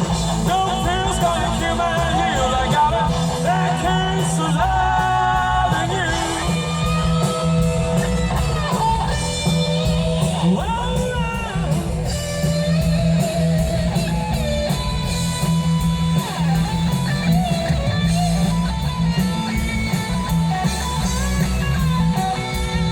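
Live rock band playing, with melodic electric guitar lines over a steady bass and drum beat.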